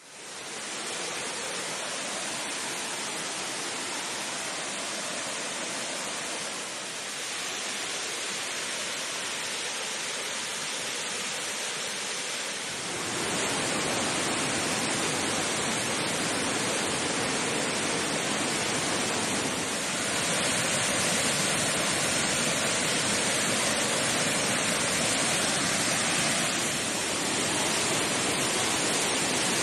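Waterfall's steady rush of falling water, stepping up louder about 13 seconds in and again about 20 seconds in.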